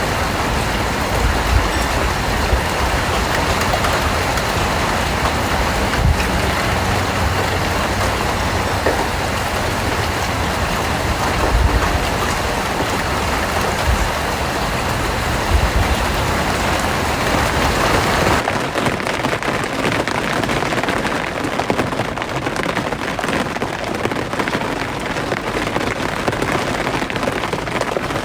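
Steady rain falling, a dense hiss of drops with a low rumble and occasional heavier thumps. About 18 seconds in it changes abruptly to lighter-sounding rain with much less low rumble, as if cut to a different recording.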